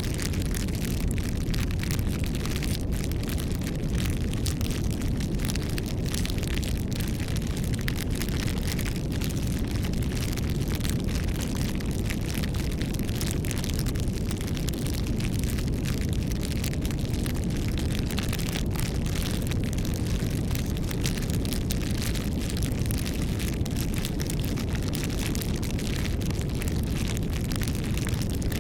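Wood bonfire burning, a continuous crackle of many small irregular pops over a steady low rumble.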